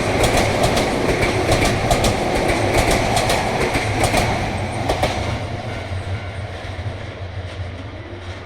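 Keio Series 1000 electric multiple-unit train passing close by, wheels clicking in quick runs over the rail joints. About five seconds in the clicking stops and the running noise fades as the train moves away.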